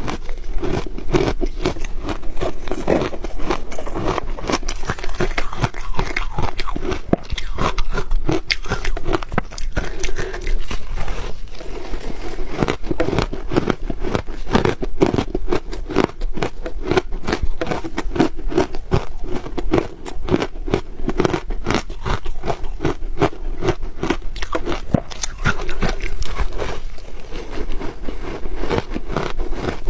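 Close-up crunching of ice being bitten and chewed: a dense, irregular run of crisp crackles and crunches that keeps going without a break.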